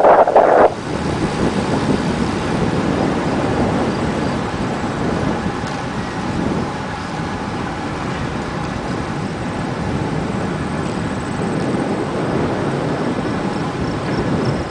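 Steady rush of wind and road noise on a moving bicycle's microphone, with a louder buffeting gust that dies away under a second in.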